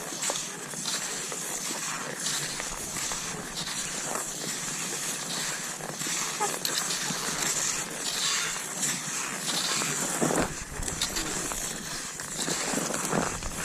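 Cross-country skis swishing and scraping over snow, with a rhythm of repeated strides and pole plants. A low rumble briefly joins about ten seconds in and again near the end.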